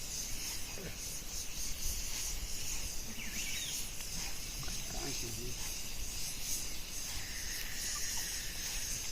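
Outdoor ambience dominated by a steady, high-pitched chorus of insects, with a few faint short calls and murmurs under it.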